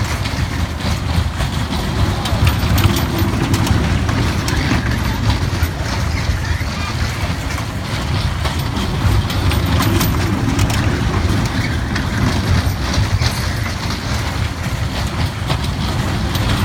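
Ride-on toy train running: a steady low rumble with scattered clicks and rattles.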